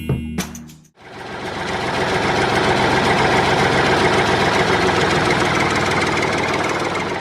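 A mini tractor's engine-type running sound: a steady, fast chugging idle that fades in about a second in and holds evenly to the end. Just before it, music cuts off.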